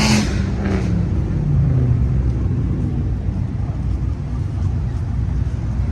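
A car engine running with a steady, deep low rumble.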